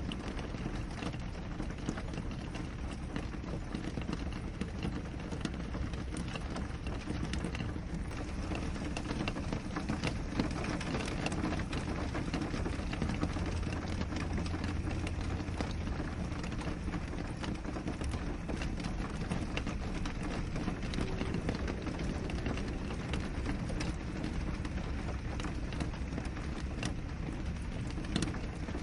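Steady rain pattering on window glass: an even hiss of rainfall with many small, close-spaced drop taps.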